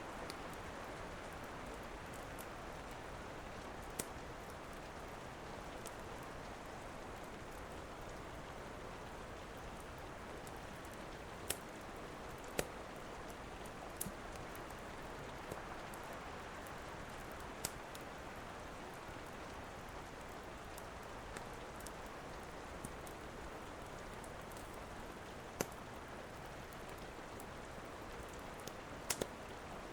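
Steady rain, with the sharp, irregular pops and snaps of a crackling wood fire in a fireplace every few seconds.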